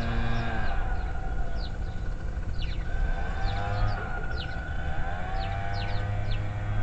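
Small wild birds chirping in short, high, down-slurred notes, several in quick succession, over a low steady rumble and a pitched drone that stops about half a second in, then comes back with its pitch sliding.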